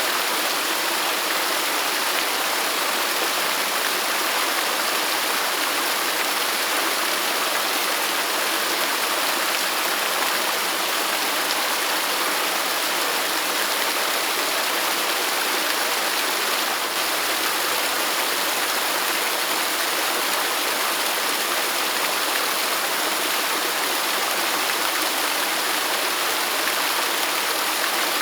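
Waterfall rushing steadily: an even, unbroken hiss of falling water with little deep rumble.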